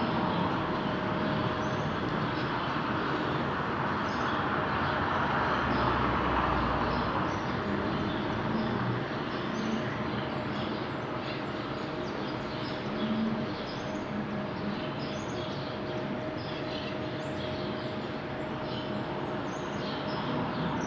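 Delta Gold 60 cm 200 W fan running: a steady rush of air from the blades with a faint constant hum from the motor.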